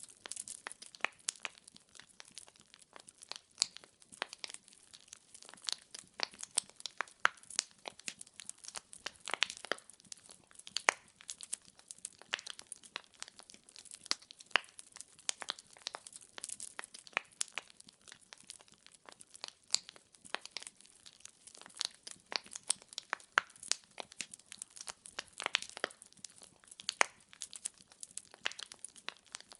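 Wood fire burning in a fireplace: logs crackling, with many small sharp pops coming irregularly, several a second, over a faint steady hiss.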